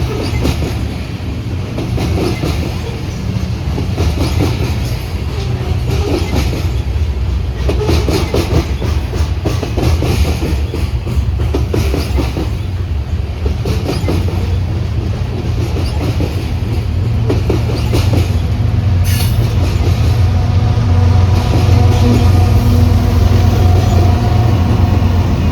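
Train passing at track side: wheels clacking over rail joints over a steady heavy rumble, growing louder toward the end.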